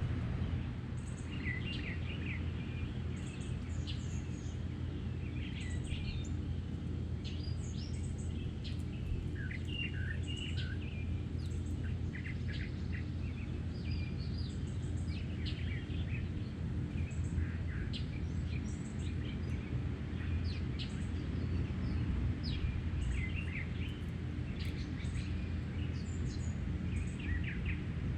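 Small songbirds chirping and calling in many short, overlapping notes, over a steady low background rumble.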